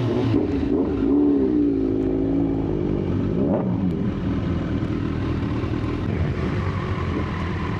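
Inline-four superbike engine running under way, its pitch wavering up and down with the throttle and rising briefly about three and a half seconds in.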